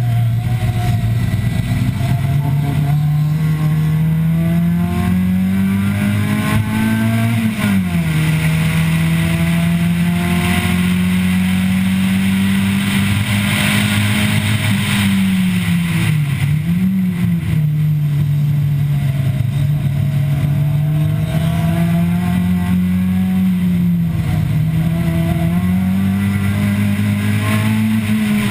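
Nissan Sentra B15's SR20 four-cylinder engine heard on board at racing pace, its note rising and falling with the throttle through the corners. The pitch climbs and then drops sharply about seven seconds in, dips and picks up again briefly past the halfway point, and climbs again near the end.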